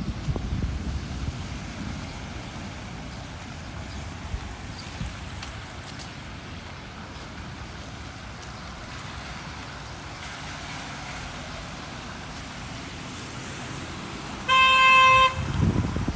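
Steady rain and street noise, then a vehicle horn gives one short, loud toot near the end.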